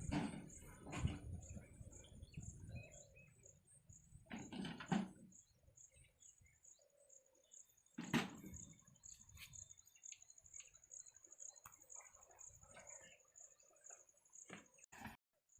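Quiet background with a high-pitched chirp repeated evenly about four times a second, from a bird or insect, and a few dull knocks and bumps.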